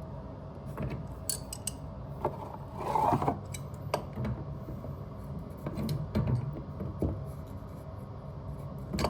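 Metal hand tool clicking and scraping against a stuck compression ferrule on a pipe as it is worked to get it off, with a louder grinding scrape about three seconds in. A steady low hum runs underneath.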